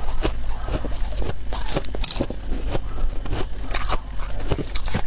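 Close-up crunching as a person bites and chews freezer frost ice: many sharp, irregular crunches one after another.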